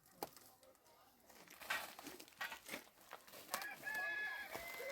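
Birds calling, short held chirps in the second half, over scattered knocks and rustling.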